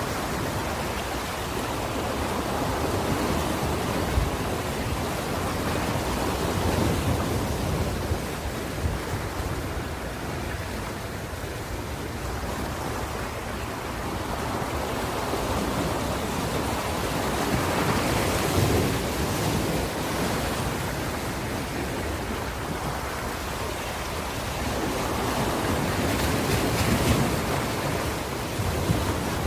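Ocean waves breaking and washing up the shore, a steady rush of surf that swells and ebbs, with stronger surges about a third of the way in, past the middle, and near the end.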